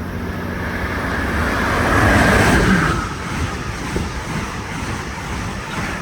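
Amtrak Vermonter passenger train passing at high speed on the adjacent track. A rush of air and wheel noise builds to its loudest about two seconds in and drops in pitch as the train goes by. It is followed by the steady clatter of the passing cars.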